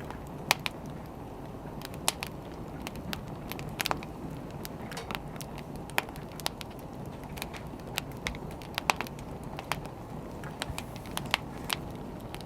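Wood fire burning: a steady low rush of flame with irregular sharp crackles and pops from the burning firewood, some louder than others.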